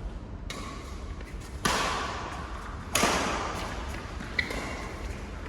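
Badminton rackets hitting a shuttlecock in a rally: three sharp smacks a little over a second apart, each trailing off in echo, then a light tick.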